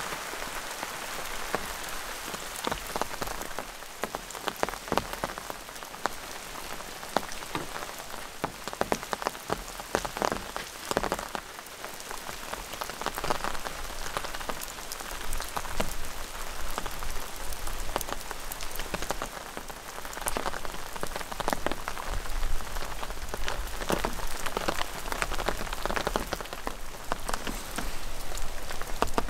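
Steady rain falling, with irregular sharper taps of drops hitting a wet plastic tarp.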